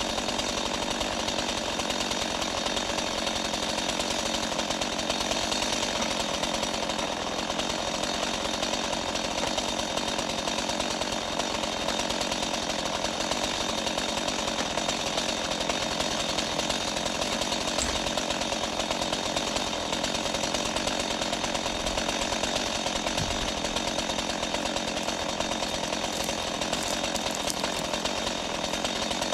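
Small engine running steadily, driving a winch that is pulling a tree over.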